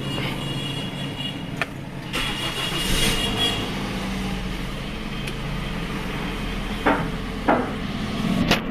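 A car engine running steadily, with a few short clicks or knocks, two of them close together near the end.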